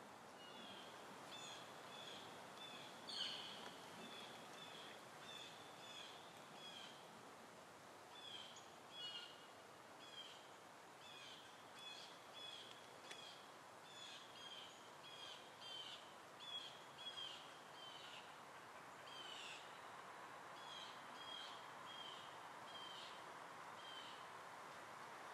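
Faint, repeated short high chirps of small birds, about two a second, with one louder chirp about three seconds in, over a steady low outdoor hiss.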